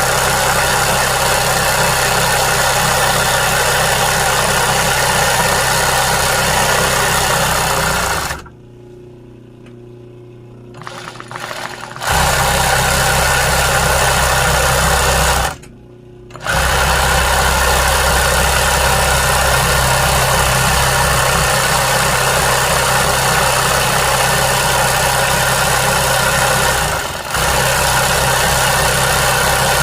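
Sewing machine stitching embroidery at a steady speed. It stops abruptly twice, once for about three seconds and once for about a second, and dips briefly near the end.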